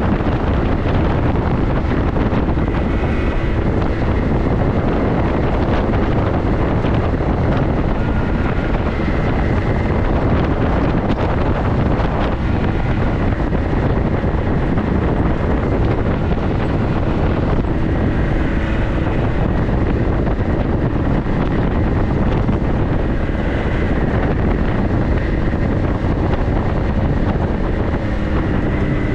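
4x4 vehicle driving along steadily, with an even rumble of engine and road noise and wind buffeting the microphone.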